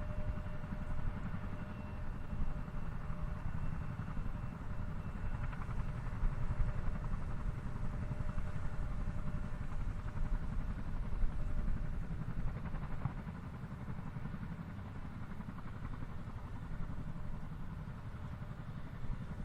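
Distant jet engine rumble of a Boeing 787-8 climbing away after takeoff, a steady low roar that slowly eases off, with faint whining tones that fade out after a few seconds.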